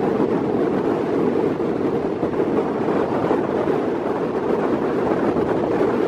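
Steady running noise of a suburban electric local train at speed, heard from on board, with wind rushing across the microphone at the open window.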